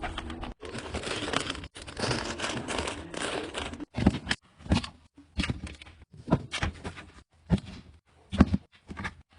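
Plastic packaging crinkling and rustling, then a run of separate knocks and clunks about once a second, like items being set down on fridge shelves.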